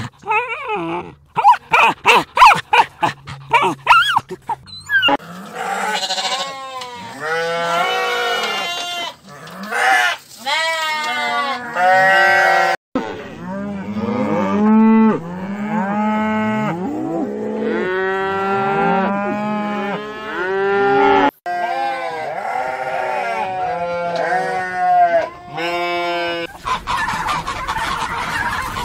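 A dog's quick, short whines for the first five seconds or so, then a herd of cattle mooing, many long calls overlapping one after another. Near the end, a flock of mallard ducks quacking.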